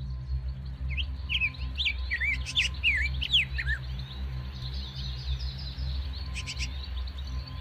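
Birds chirping: a quick run of short, sweeping notes in the first half, then fainter twittering, over low background music.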